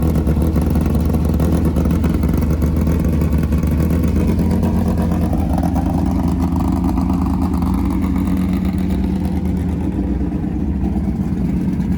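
A vehicle engine running steadily at an even speed, with a strong low hum and little change in pitch.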